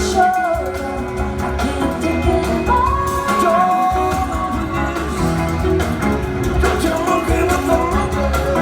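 Live rock band playing with a male lead vocal singing long held notes over a steady bass beat.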